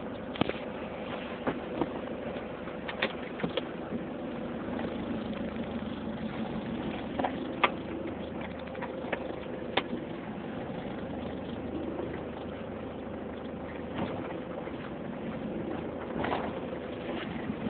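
Turbocharged car engine idling steadily, with a steady whistle from the turbo held throughout and a few sharp clicks scattered through it.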